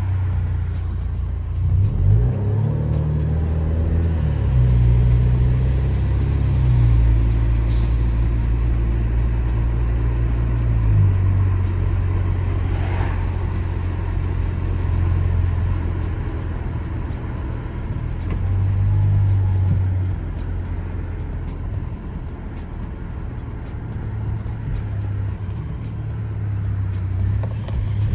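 2017 Alfa Romeo Giulia with a muffler delete, engine and exhaust while driving. The note climbs about two seconds in as the car pulls away, then settles into a low, steady drone that steps in pitch a few times.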